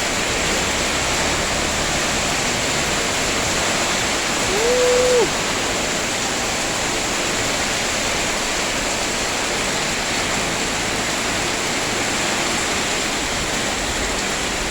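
Heavy rain pouring down steadily, a dense even hiss. About five seconds in, a short single-pitched tone rises, holds for under a second and drops away.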